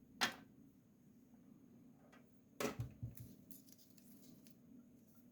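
A few faint clicks and knocks: a single click just after the start, then a short cluster of four or five about two and a half to three seconds in.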